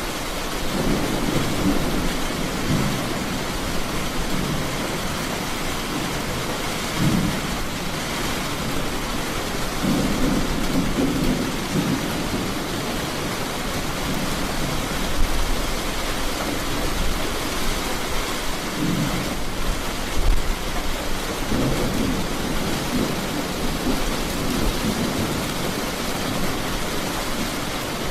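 Heavy rain falling steadily, with low rolls of thunder rumbling up several times.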